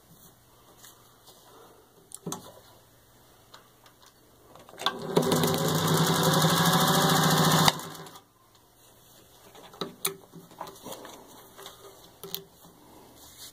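1941 Singer 201-2 sewing machine stitching through four layers of vinyl upholstery. It runs steadily at speed for about three seconds, starting a little before the middle and stopping abruptly. Before and after the run there are faint clicks from the material and the machine being handled.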